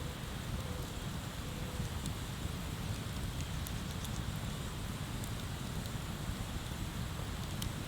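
Wood fire burning with a few sharp crackling pops, the clearest near the end, over a steady low rushing background.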